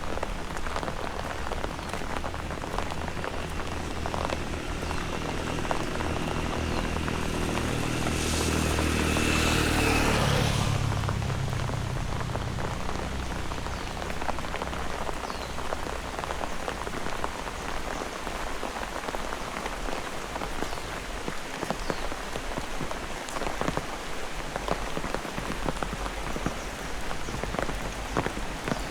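Heavy rain falling steadily on surfaces, with scattered drop hits. A low humming sound swells to its loudest about nine to ten seconds in, then fades away.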